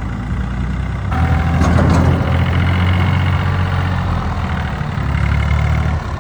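A vehicle engine running steadily, stepping up in level about a second in, with a brief rougher burst shortly after.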